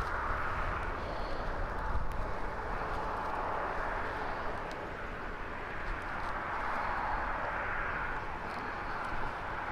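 Steady outdoor background noise, an even hiss that swells and eases slowly over a low rumble, with a few faint clicks.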